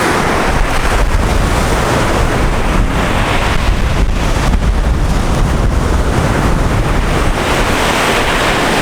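Pacific Ocean surf washing onto an open beach, with strong wind buffeting the microphone.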